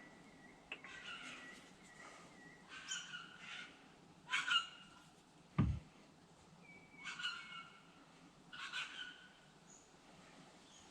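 Birds calling outside, about six separate calls spaced a second or two apart, with one low dull thump about halfway through.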